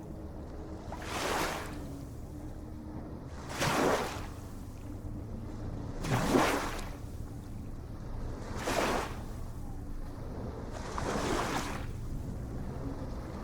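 Small ocean waves breaking and washing in about every two and a half seconds, five surges in all, over a steady low rumble.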